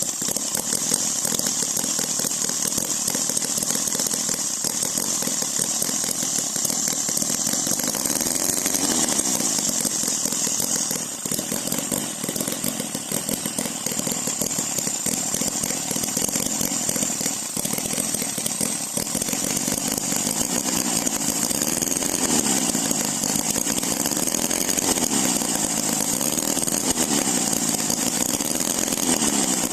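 OKMO H75 Holt scale model engine running just after a cold start, with a rasping buzz. Its pitch rises and falls several times as the throttle is opened and closed.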